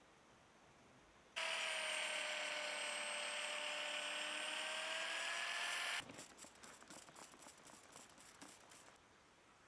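A small electric power tool's motor switches on and runs steadily for about four and a half seconds, then cuts off abruptly. A rapid run of light clicks follows for about three seconds.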